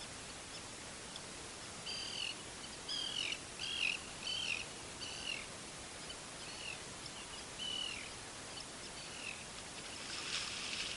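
A small bird calling outdoors: a series of about a dozen short chirps, quick at first and then slowing. A brief rustle near the end.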